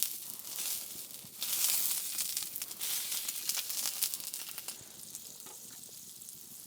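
Sausages and vegetables sizzling as they fry in a pan, a steady hiss flecked with small crackles and pops. The sizzle swells about a second and a half in and dies down toward the end.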